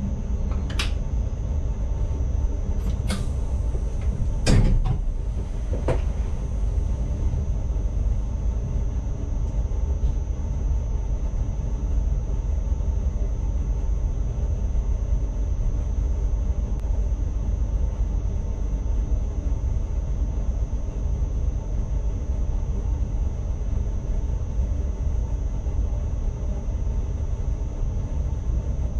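NS ICMm electric multiple unit running along the track, heard from the driver's cab as a steady low rumble. A few sharp clicks and knocks come in the first six seconds, the loudest about four and a half seconds in.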